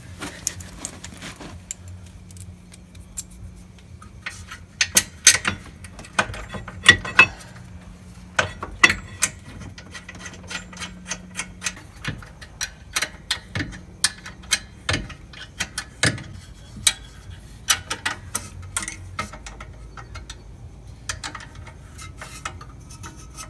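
Irregular metallic clicks and clinks of hand tools and brake parts being handled, with a few louder clusters of knocks. A faint low hum runs under it and stops about halfway.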